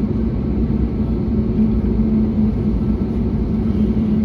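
Steady drone inside the cabin of an Airbus A321neo with Pratt & Whitney geared turbofans, a low rumble and rush of engine and airflow noise with a constant hum.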